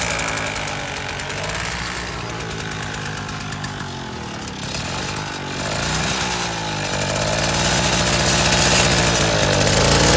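Mini tractor engine running with a rapid, rhythmic knock; its note wavers and dips in the middle, then steadies and gets louder toward the end.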